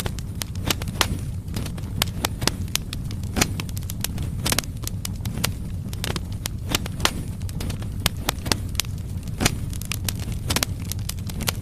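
Firewood logs burning in a fireplace, crackling and popping in irregular sharp snaps over a steady low rumble of the fire.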